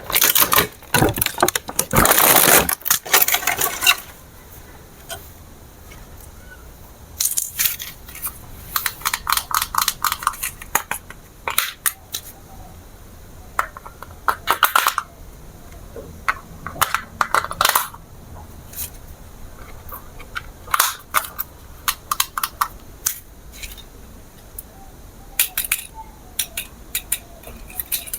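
Handling of small hard items, likely toy parts or packaging: dense clicking and crinkling for the first few seconds, then short bursts of clicks and rattles with quieter pauses between them.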